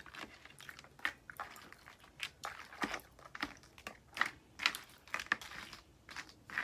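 Boiled crawfish being eaten close to the microphone: shells cracking and crinkling as they are peeled by hand, mixed with chewing and mouth sounds, in irregular short clicks a few times a second.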